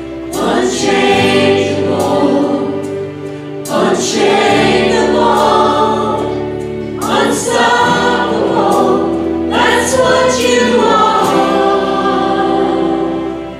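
A choir sings a hymn with instrumental accompaniment, its sustained bass notes changing every few seconds.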